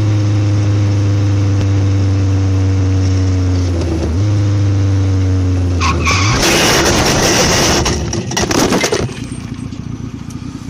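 A vehicle engine runs at a steady pitch with a brief dip in the middle, as heard on a motorcycle camera. About six seconds in, a loud rush of skidding and crash noise lasts a few seconds as the bike is hit, then the sound drops away.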